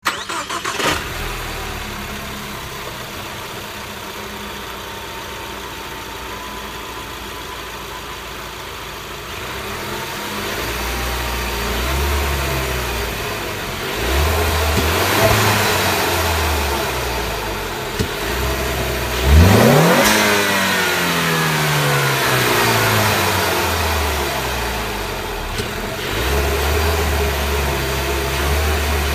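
2015 Ford Mustang EcoBoost's turbocharged 2.3-litre four-cylinder breathing through its stock airbox, idling steadily and then revved in throttle blips. About two-thirds of the way through, one quick sharp rev rises steeply in pitch and then falls slowly back toward idle.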